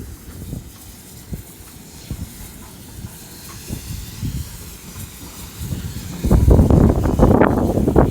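Steam locomotive with a low hiss of steam; about six seconds in, a much louder, uneven rumbling noise sets in.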